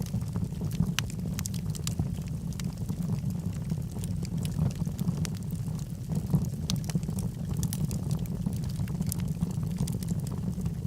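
Wood logs burning in a fireplace: frequent irregular crackles and small pops over a steady low rumble of the fire.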